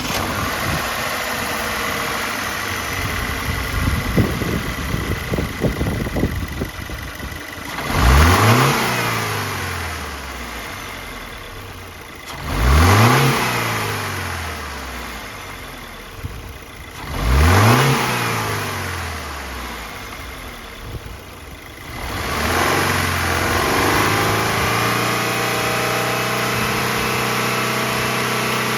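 Subaru WRX S4's 2.0-litre turbocharged flat-four (FA20) idling just after being started, then blipped three times, each rev rising quickly and falling back to idle. Near the end it settles into a steady idle.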